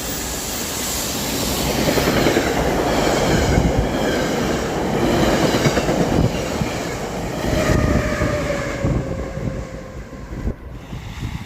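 Train passing close by on the tracks: wheels clicking over the rail joints with a thin squeal from the wheels. The sound builds, is loudest through the middle, and fades near the end.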